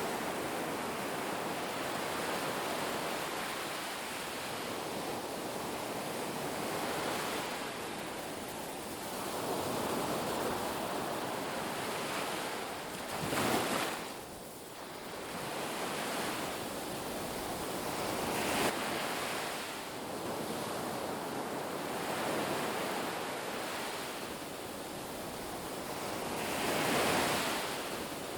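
Ocean waves breaking on a beach: a continuous wash of surf that swells and ebbs, with louder breakers about halfway through and near the end.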